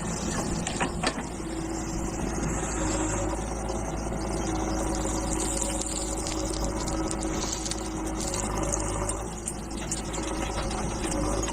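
Diesel engines of a backhoe loader and tractor running steadily during soil loading, with a couple of sharp knocks about a second in.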